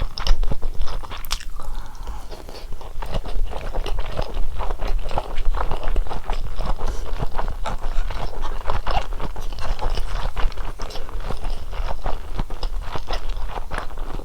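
Close-miked chewing and biting of food: a dense, continuous run of wet crunches and mouth clicks.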